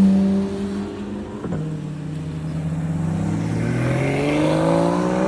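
Car engines running: a loud, steady engine note in the first half-second, then an engine note that climbs steadily in pitch over the last couple of seconds as a car accelerates.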